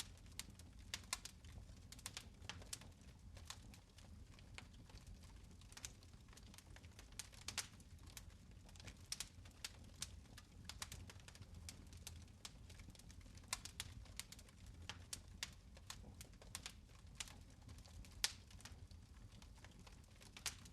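Fire in a fireplace crackling: irregular sharp pops and ticks, one a little louder near the end, over a low steady rumble of the flames.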